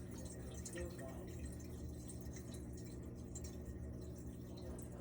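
Faint dripping and trickling of water in a sink and laundry drain, under a steady low hum.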